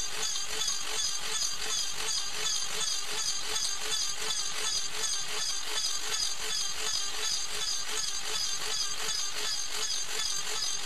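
Small hobby CNC mill running a trochoidal toolpath in aluminium: spindle and feed motors running steadily, with the cutting noise pulsing about four times a second as the cutter loops through the cut.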